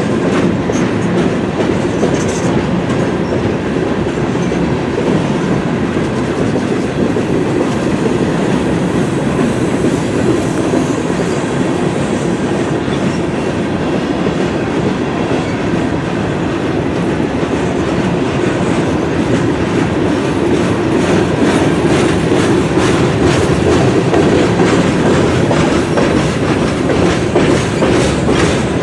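Freight cars of a manifest train rolling past: a steady rumble and rattle, with the steel wheels clicking over rail joints. The clicks grow more distinct near the end.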